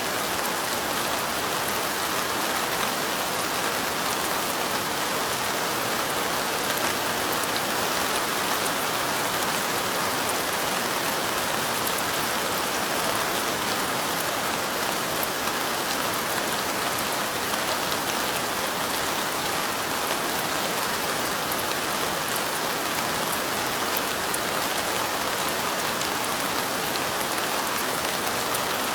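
Light rain falling steadily: an even, unbroken hiss with a fine patter of drops.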